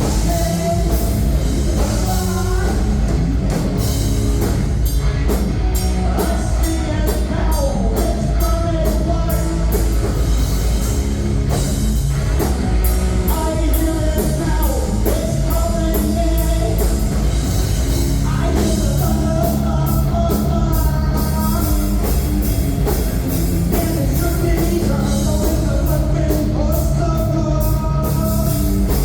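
Live rock band playing a heavy song: electric guitars, bass and drum kit, with a sung vocal line over them.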